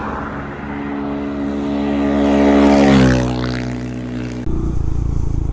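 Honda Monkey 125's single-cylinder engine, fitted with a Chimera short ram intake and a Takegawa aftermarket exhaust, accelerating under load with a throaty sound. Its pitch rises for about three seconds and then drops suddenly, as at a gear change.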